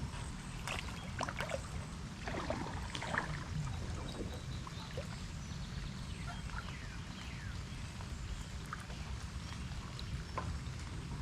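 Water splashing and dripping around a kayak, with a few light knocks in the first few seconds and scattered drips after, over a steady low rumble.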